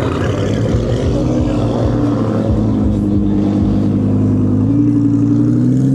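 A car engine running at low revs, its pitch rising slightly about two-thirds of the way through.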